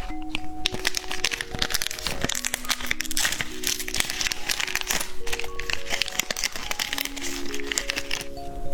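Plastic snack packaging crinkling and crackling as it is handled and opened, over background music with a simple stepping melody of single plinking notes.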